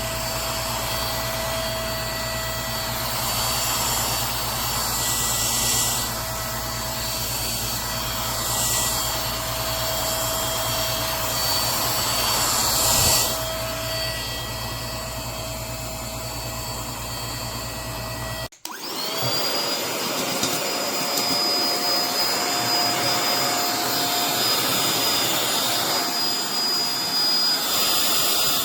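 Lachesis handheld cordless car vacuum cleaner running, a steady motor hum with a thin whine. About two-thirds of the way through it cuts out for a moment, then the whine rises again as the motor spins back up.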